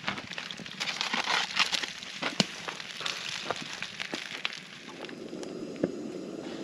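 Campfire crackling and popping, with a thick run of sharp snaps that settles about five seconds in into a steadier low hiss with only an occasional pop.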